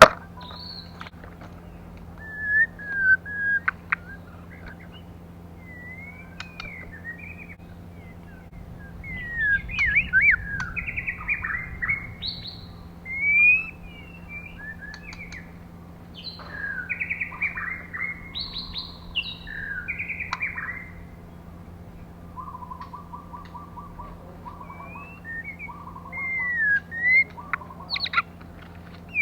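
Female white-rumped shama singing in short bursts of quick, varied whistled notes, with a fast run of short low notes about two thirds of the way through. This is the kind of female song played to stir male shamas into singing.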